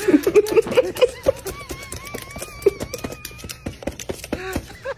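A parrot making short chirping, chattering sounds and, from about a second in, a thin wavering whistle, over many sharp clicks.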